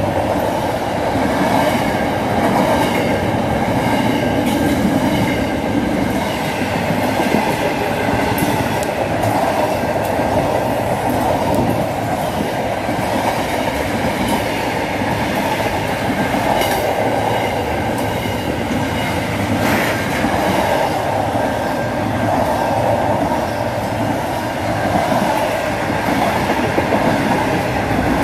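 Container freight train passing at speed close by: a steady loud rumble of steel wheels on rail, with faint high-pitched ringing tones over it and a few sharp clicks.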